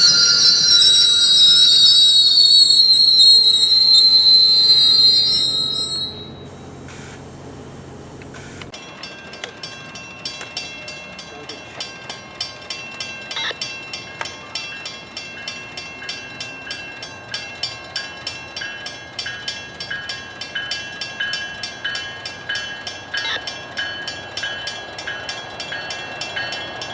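An MBTA commuter rail train's wheels squeal with a loud, high, slightly falling screech for about six seconds. Then a railroad grade-crossing bell rings steadily, about twice a second.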